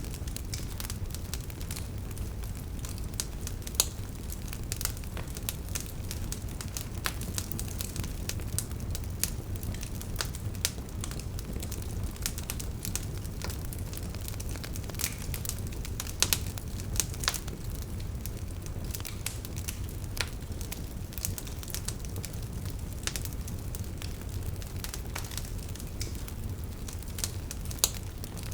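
Wood fire burning, with logs crackling and popping in irregular sharp snaps over a low steady rumble of the flames; a few louder pops stand out now and then.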